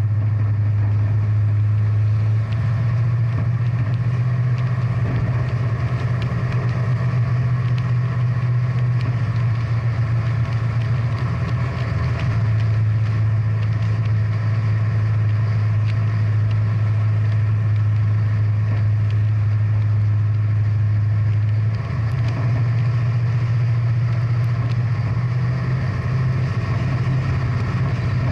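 Big-block V8 muscle car engine idling with a deep, steady note that shifts slightly in pitch a few times.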